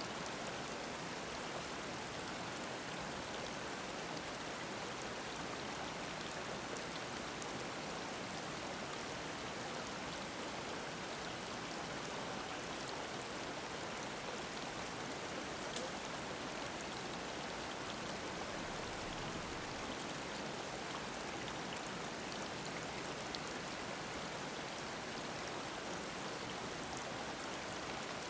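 Mountain stream babbling steadily over rocks, an even rush of running water, with one small sharp splash or click about halfway through.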